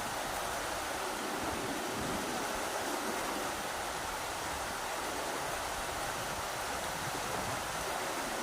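Rushing river water: a steady, even rush of flowing water with no breaks.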